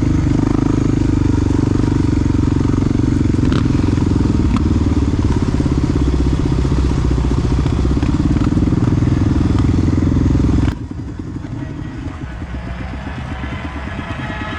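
Honda XR big-bore single-cylinder four-stroke dual-sport engine running loudly at a steady pace. About eleven seconds in, the sound drops abruptly to a quieter, softer engine note.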